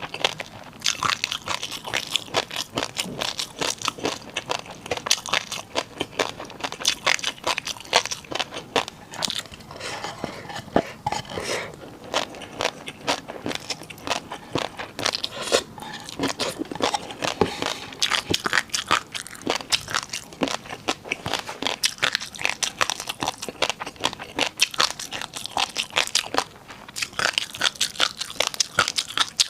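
Close-miked eating of crunchy noodles: a dense, continuous run of crisp crunches as the person bites and chews.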